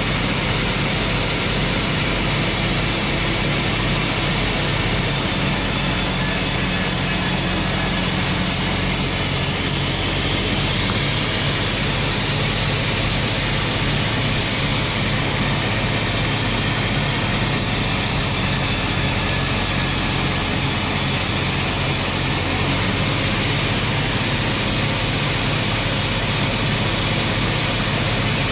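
Sawmill machinery running steadily while splitting wood slabs: a constant low motor hum under an even hiss, with no pauses.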